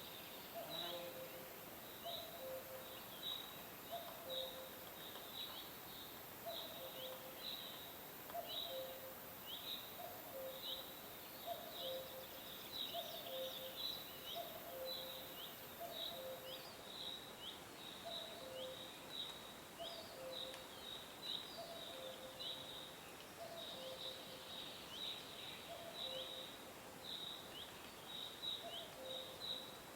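Birds chirping: a dense run of short, high, falling chirps, several a second, over a low two-note call that repeats about once a second. A faint high hiss stops about halfway through.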